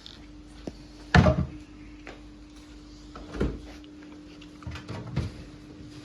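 A few clunks and knocks of kitchen utensils and containers being handled, the loudest about a second in, over a steady low hum.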